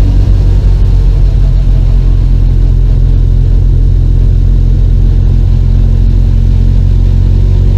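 Classic Mini's A-series four-cylinder engine running steadily while the car cruises along, heard loud from inside the small cabin.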